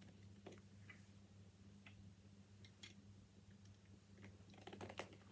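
Faint, scattered clicks of plastic Lego bricks being handled and pressed onto a baseplate, with a few clicks close together near the end, over a steady low electrical hum.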